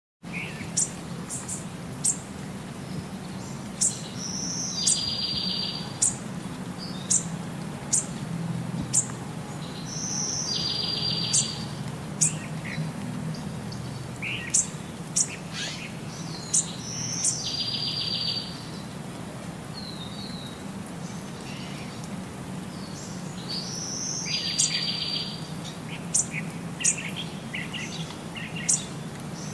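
Small birds chirping: many short, very high chirps, with a short buzzy trill about every six seconds, over a low steady hum.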